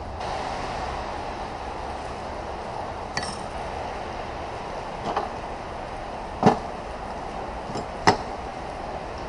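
Metal transmission parts and tools clinking and knocking on a workbench: a ringing clink about three seconds in, then a few sharper knocks, the loudest two near the end, over steady background noise.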